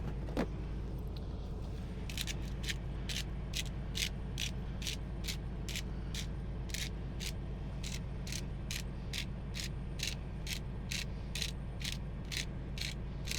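Pepper grinder being twisted: a regular run of dry ratcheting clicks, about two to three a second, starting about two seconds in.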